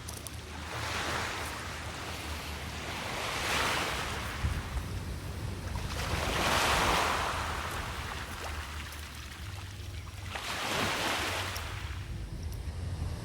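Sea waves breaking on a beach, four surges of surf that swell and fade a few seconds apart.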